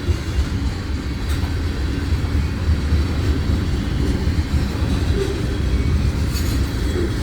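Freight train of tank cars rolling past: a steady, low rumble of steel wheels on the rails, with an occasional faint click.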